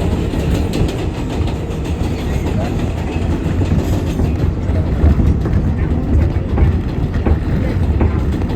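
Interior of a moving R188 subway car running between stations: a steady rumble from wheels on the rails, with scattered clicks and clatter.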